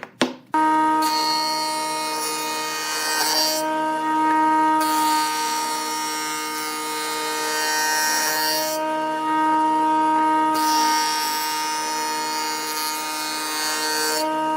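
Woodworking power saw running with a steady whine while it cuts wood, the hiss of cutting dropping out twice for a second or two as the blade leaves the work.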